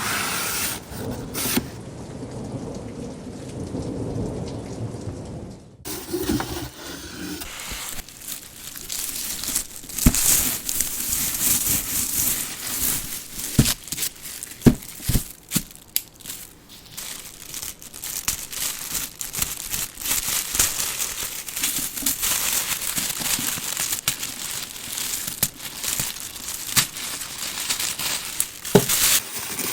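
Doll packaging being handled close up: dense crinkling and rustling of plastic and cardboard with many sharp clicks and taps, starting about six seconds in after a low rumbling noise.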